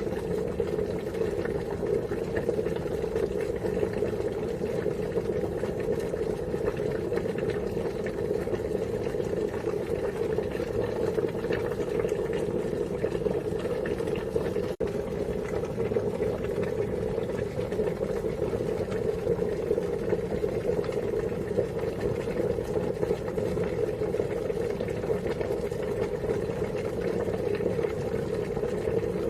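Water at a steady rolling boil, an unbroken bubbling hiss strongest in the low-middle range, with a momentary dropout about halfway through.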